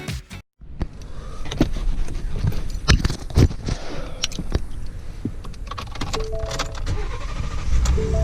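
Keys jangling and the clicks and knocks of handling inside a car, over a low steady rumble. Near the end a short steady tone sounds twice.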